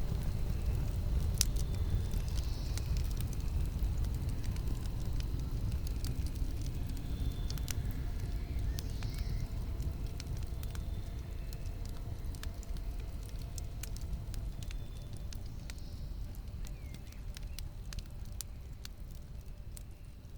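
Campfire burning, with a low rumble of flames and frequent sharp crackles and pops from the burning wood. The sound slowly fades down toward the end.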